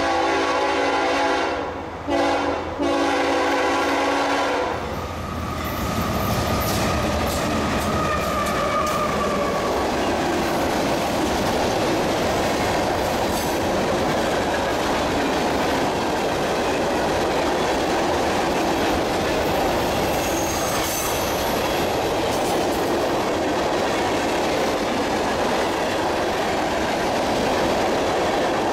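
CSX freight locomotive's air horn sounds two long blasts, split by a short break, as the train approaches; then the locomotives pass and a long line of covered hopper cars rolls by with a steady rumble of steel wheels on rail, clickety-clack over the rail joints and a couple of brief wheel squeals.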